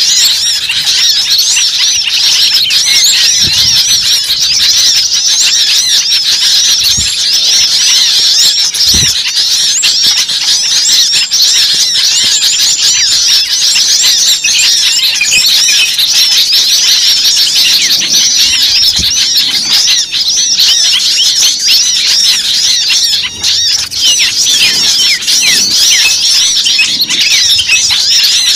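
Dense, busy chorus of many small birds calling at once: a bird-lure recording of agitated small birds, full of high, squeaky chirps and twitters that overlap without a break. A few soft low thumps sit beneath it.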